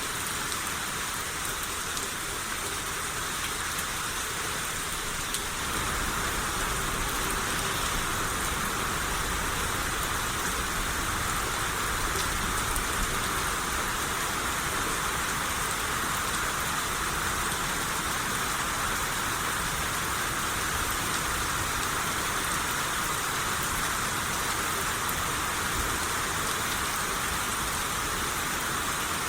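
Steady rain shower, an even hiss of rain falling on surfaces. It turns a little louder and heavier about five and a half seconds in, then keeps on evenly.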